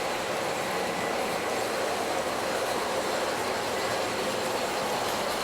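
Model trains running on the layout's track: a steady whir and rumble of electric locomotive motors and wheels on the rails.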